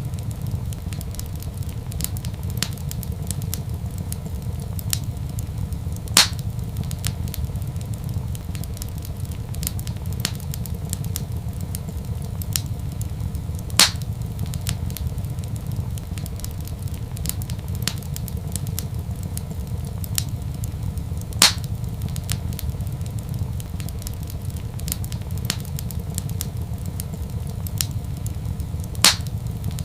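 Wood fire in a fireplace crackling, with a steady low rumble underneath, many small clicks and a louder single pop about every seven and a half seconds.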